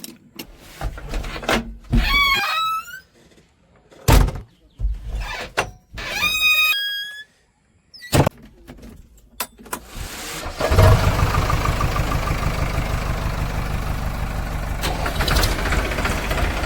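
A diesel engine starts about two-thirds of the way through and runs at a steady, knocking idle. Before it, there are scattered sharp knocks and two squeals whose pitch shifts.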